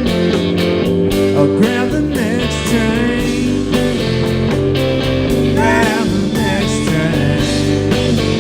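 Live rock band playing an instrumental break, with a lead guitar line bending and sliding between notes over bass and drums.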